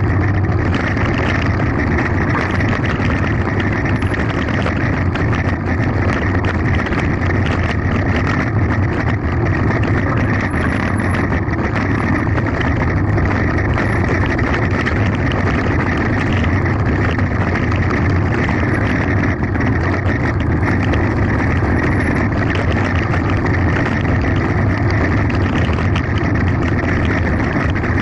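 Mountain bike descending fast: wind rushing over the bike- or helmet-mounted camera's microphone, with a steady rattle of tyres and frame over a rough gravel forest road.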